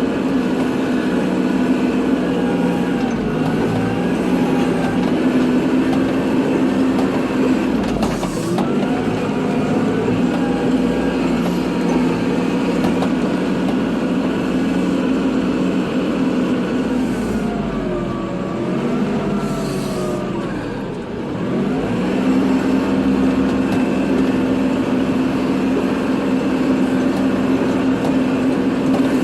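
Kubota tractor's diesel engine running steadily while plowing snow, its pitch sagging briefly about a third of the way in and dipping and recovering again about two-thirds of the way through as the load or throttle changes.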